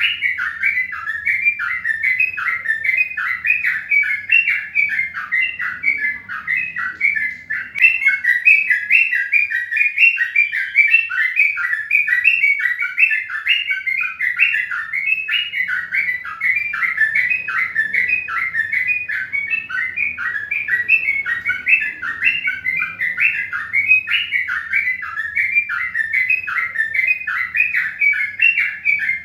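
Many small birds chirping and tweeting together in a dense, unbroken chorus of short, quick notes.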